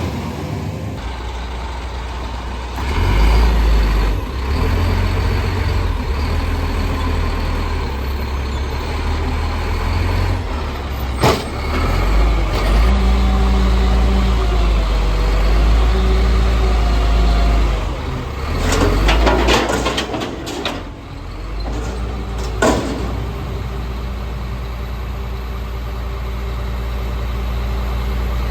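Garbage truck's diesel engine running, with stretches where the revs rise, a sharp clank about eleven seconds in, and short air-brake hisses later on.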